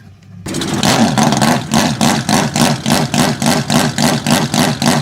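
Modified car engine held against its rev limiter, the revs rising and cutting out about five times a second. It starts abruptly about half a second in.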